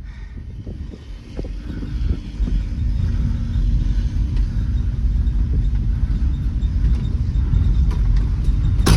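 Pickup truck being driven, its engine and road noise rumbling, growing louder about two seconds in, with a sharp click at the very end.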